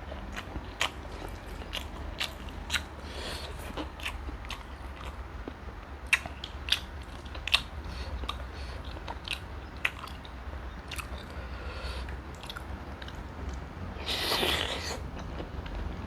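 Close-miked eating: a person chewing and crunching food, with many sharp clicks and cracks at irregular intervals. About fourteen seconds in there is a louder, noisier sound lasting about a second.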